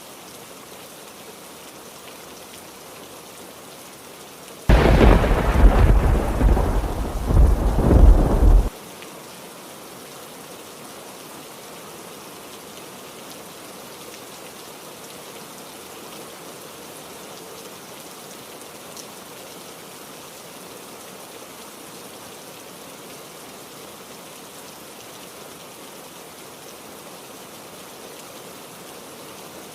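Steady heavy rain, broken about five seconds in by a loud clap of thunder that rumbles for about four seconds, swelling twice, then stops abruptly.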